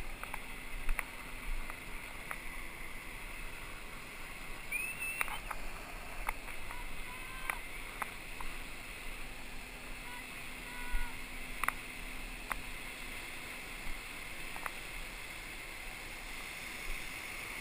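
Steady hiss of water and wind around a surf boat, with scattered light knocks and clicks and a few faint brief high tones.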